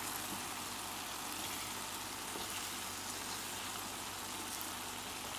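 Beaten eggs sizzling steadily in a stainless steel frying pan beside shrimp and vegetables.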